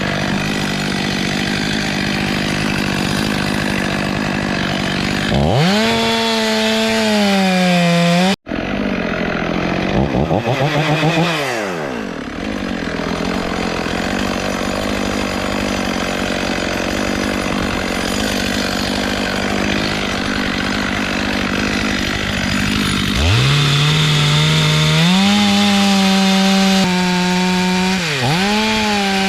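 Chainsaw running and cutting wood from a beech tree. The engine runs steadily and is revved up to full throttle in several long pulls, about six seconds in, around ten seconds, and again from about two-thirds of the way through. The sound cuts out for an instant just after the first pull.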